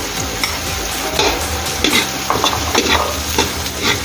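Chopped garlic, ginger and red onion sizzling in hot oil in a metal wok, with a metal ladle scraping and knocking against the pan in quick repeated strokes as it stirs.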